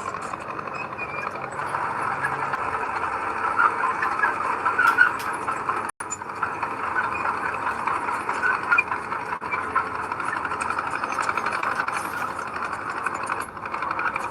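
Heavy earthmoving machinery at work: a large diesel engine running steadily, with a few sharp clicks. The sound drops out for an instant about six seconds in.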